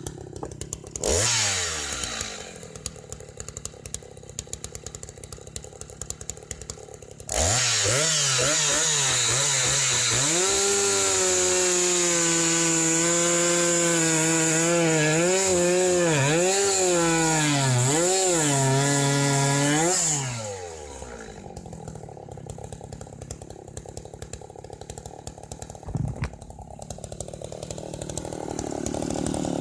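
Jonsered CS 2159W two-stroke chainsaw idling, then opened up to full throttle for about thirteen seconds, its pitch dipping and recovering several times, before dropping back to idle. A short blip of throttle comes about a second in, and the engine starts picking up again near the end.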